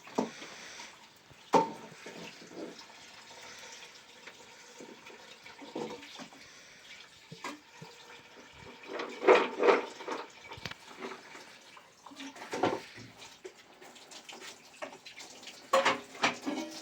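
Water running and splashing, with irregular louder splashes.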